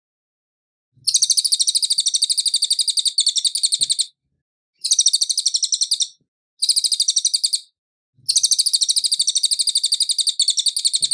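A cililin songbird singing: four bursts of a fast, high, rattling trill of rapidly repeated notes. The first starts about a second in and lasts about three seconds, two shorter bursts follow, and a long one runs to the end.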